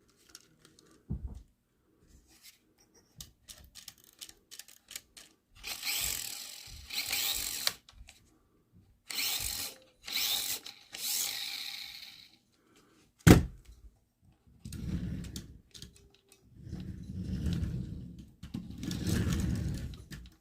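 Micro RC car's tiny electric motor and gearbox whirring in short bursts as the throttle is blipped, with a sharp click partway through and lower rumbling bursts near the end.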